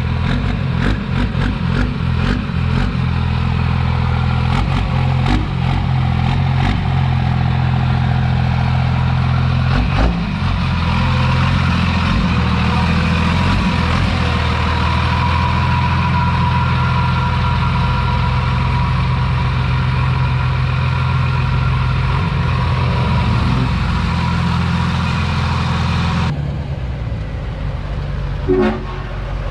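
Straight-piped LBZ Duramax diesel running steadily as the truck drives, a constant low drone, with a run of light clicks over the first few seconds.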